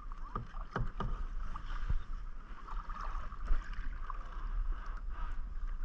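Kayak paddling: water splashing and dripping off the paddle, with scattered light knocks and ticks.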